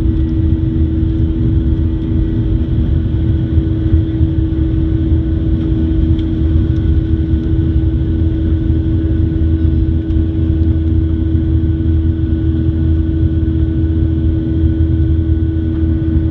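Steady cabin noise of a jet airliner in flight, heard from inside the cabin: a deep, even rumble of engines and rushing air, with a steady hum on top.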